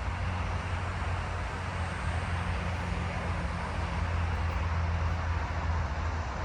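A steady low engine hum with a rushing noise over it, swelling a little past the middle and easing off toward the end.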